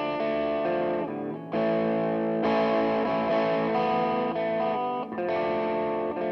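Electric guitar playing sustained, distorted chords through effects, the chord changing every second or two.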